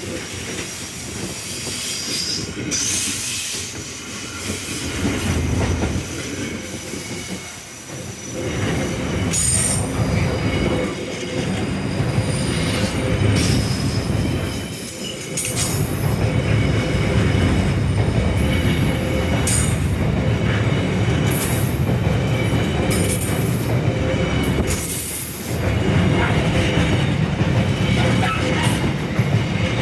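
Intermodal container freight train passing on flat wagons: a continuous rumble of wheels on rail. Brief high-pitched wheel squeals come again and again, and there are occasional clicks over the rail joints.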